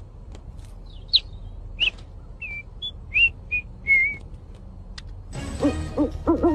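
A small bird giving a string of short, clear whistled chirps, some sliding in pitch, for the first few seconds. About five seconds in, a louder, lower voice-like hooting begins in short rising-and-falling calls.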